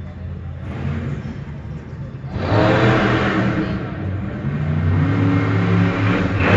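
Monster truck engine revving hard, running at lower revs and then surging suddenly louder about two and a half seconds in, its pitch rising and falling as the throttle is worked, with another surge near the end.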